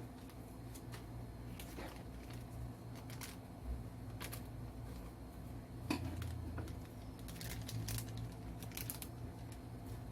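Hands handling toy packaging: scattered crinkling and rustling with light clicks, and a sharper tap about six seconds in.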